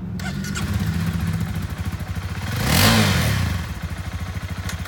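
Honda CBR300R single-cylinder engine idling, revved once about three seconds in, the pitch rising and falling back to idle.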